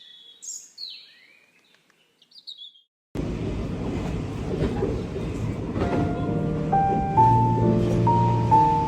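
A few short, high, gliding bird-like chirps over silence, then a steady low rumbling noise cuts in suddenly about three seconds in, with music of held, stepping notes starting over it near six seconds.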